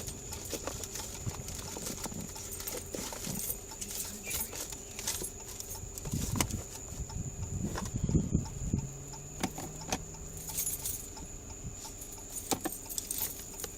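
A bunch of keys jangling and clicking as they are handled and tried in a small locked box, with scattered knocks and a few louder handling thumps about six to nine seconds in. A faint steady high whine runs underneath.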